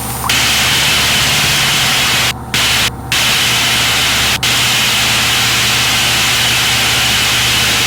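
Loud steady hiss like radio static in the headset audio, cutting out briefly three times, over the steady low hum of the Citabria's engine.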